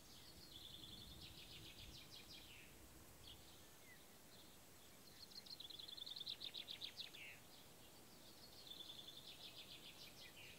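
A songbird singing three times, each song a quick run of repeated high notes ending in a falling flourish, over faint outdoor background hiss.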